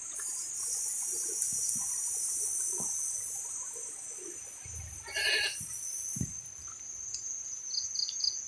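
Insect chorus, a steady high-pitched drone, with one short animal call, a bleat-like cry, about five seconds in.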